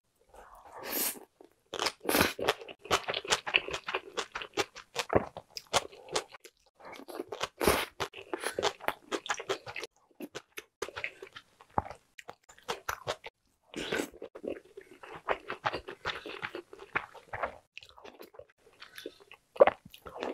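Close-miked crunching and chewing of spicy raw julienned radish salad (mu-saengchae) mixed with rice: crisp crunches in quick runs, broken by a few short pauses.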